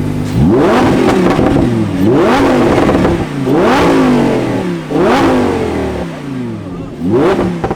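Lamborghini engine blipped from idle five times, each rev climbing sharply and dropping back to idle.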